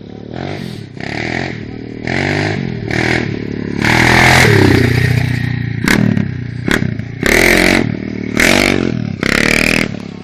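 250 cc dirt bike engine revved in short blips, about ten of them, roughly one a second. The longest and loudest rev comes about four seconds in.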